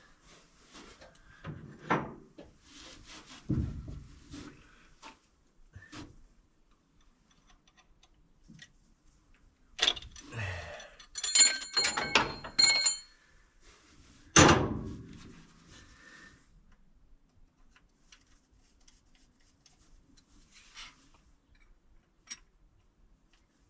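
Metal parts and tools being handled: scattered clanks and thumps, a quick run of sharp ringing metallic clinks about halfway through, then one loud thump, after which it goes quiet.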